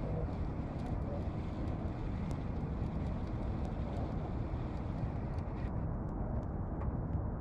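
Steady low rumble of a fishing boat under way while trolling, its motor running, with wind on the microphone.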